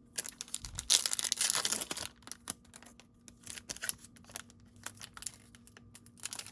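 Trading-card pack wrapper crinkling and tearing open, loudest about a second in, followed by scattered light clicks and snaps as the wrapper and cards are handled.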